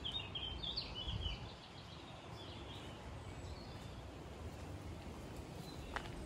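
A small bird chirping a quick run of short, high notes for about the first second and a half, then only a faint low rumble of outdoor background noise.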